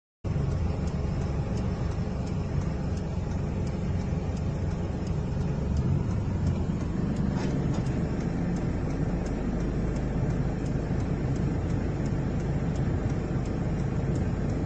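Steady low rumble of a car driving, engine and road noise together, cutting in abruptly just after the start, with faint regular ticks about twice a second.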